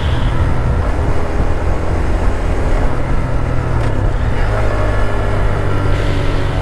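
Wind rushing over the microphone while riding a Honda Grom, with the bike's small single-cylinder engine running under it. The engine note comes up clearer and rises a little about four and a half seconds in.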